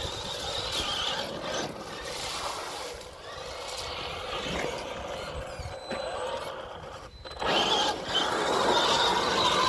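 Electric radio-controlled trucks running on a dirt track, their motors whining and rising and falling in pitch with the throttle over tyre and dirt noise. The sound breaks off briefly about seven seconds in, then comes back louder.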